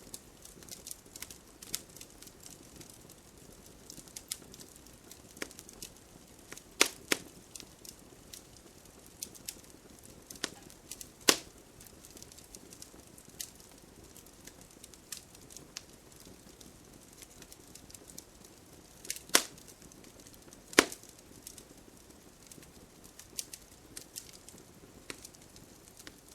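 Wood fire burning with a soft steady hiss and irregular crackles, with a few sharp loud pops from the burning logs.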